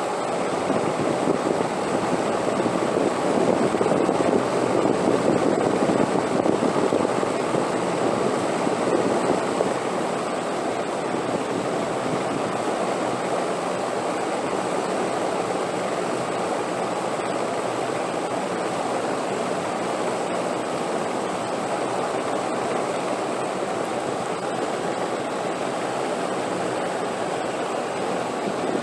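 Wind blowing as a steady rushing noise, swelling louder for a few seconds early on and then settling to an even level.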